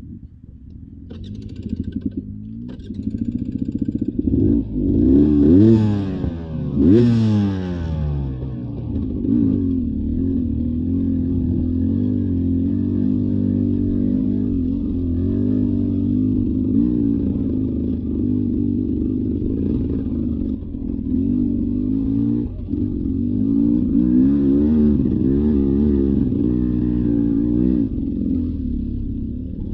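Beta 300 RR Racing dirt bike's two-stroke engine, rising from quiet with a few clicks over the first seconds, revving sharply twice a few seconds in, then running steadily under changing throttle.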